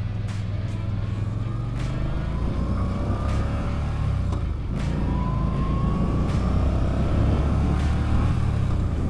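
Yamaha V-Star 950 V-twin engine pulling under load as the motorcycle accelerates, its pitch climbing. About four and a half seconds in the pitch drops once, as at an upshift, then climbs again.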